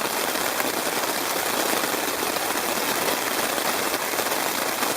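Torrential rain pouring down in a dense, steady hiss of drops.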